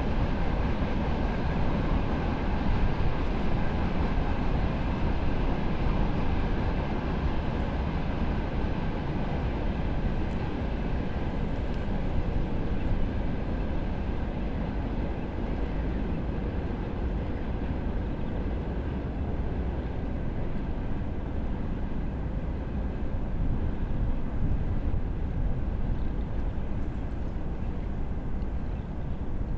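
A train passing on the nearby railway line, a steady rumble with a faint ringing from the wheels and rails. Its higher sound thins out from about halfway through as the train moves off.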